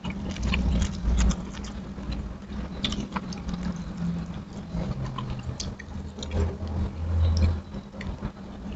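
Close-up chewing and lip-smacking, with many small wet clicks, as a man eats rice and fried chicken by hand, over a low steady hum.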